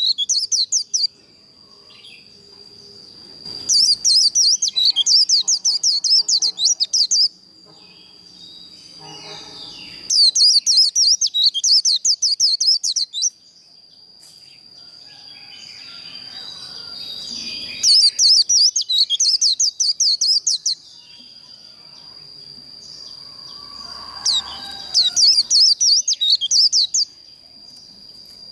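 White-eye (vành khuyên) singing its rapid, chattering 'líu' fighting song in bursts of about three seconds, five times with short pauses between, over a thin steady high tone.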